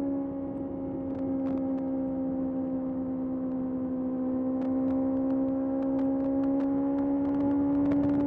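Kawasaki ZX-6R's inline-four engine running at a steady throttle while riding, a smooth high engine note that sags slightly then slowly climbs in pitch.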